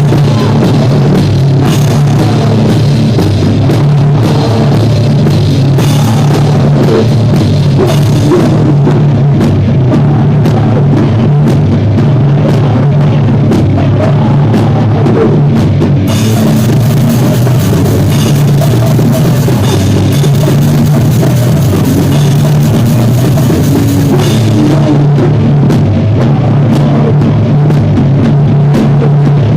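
Live rock band rehearsal playing loud, with drum kit (bass drum and cymbals) driving a steady beat under the full band, in a recording of poor sound quality.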